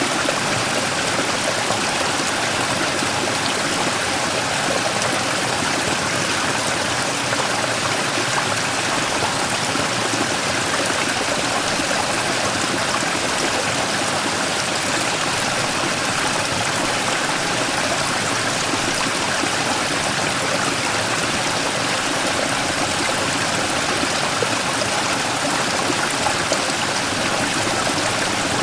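Mountain stream flowing and splashing over a large rock in a small waterfall, a steady, even rush of water.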